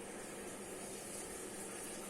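Washing machine running: a steady hum under an even hiss.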